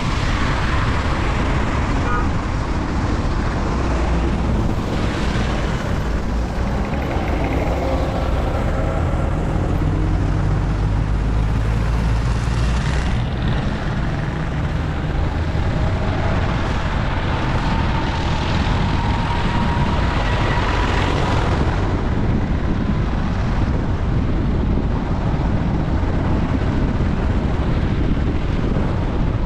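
Steady road noise of a vehicle on the move: a continuous low rumble of engine and tyres, with wind buffeting the microphone.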